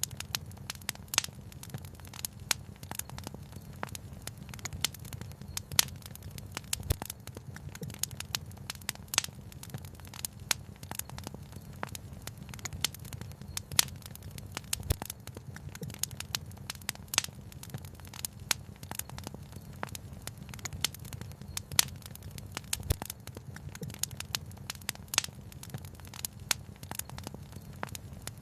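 Wood fire crackling with irregular sharp pops, a few of them louder, over a steady low rush.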